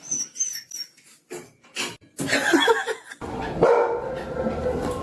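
A dog barking and whining, loudest about two seconds in.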